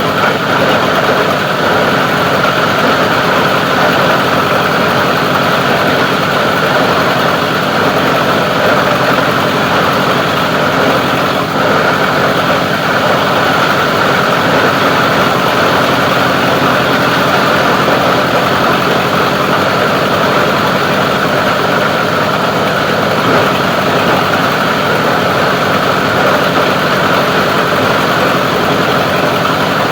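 Plastic recycling grinding machine running steadily, a loud, even mechanical drone that does not change.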